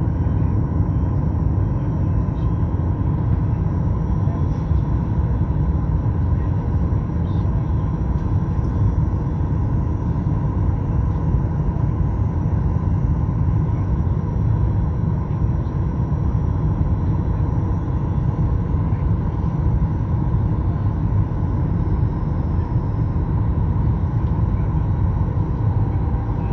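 Steady cabin noise inside a Boeing 737 MAX-8 in flight: the low rumble of airflow and its CFM LEAP-1B engines, with a faint steady tone above it.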